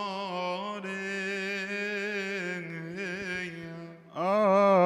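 A male voice chanting a long, drawn-out melismatic phrase of Coptic liturgical chant, unaccompanied, the pitch winding up and down over a held low note. About four seconds in, a louder voice with a wide vibrato comes in.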